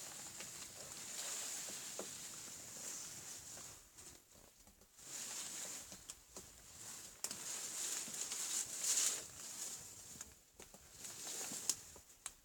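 Woodpecker pecking and chipping at old bird cherry wood: irregular, scattered sharp taps, not a steady drumming roll.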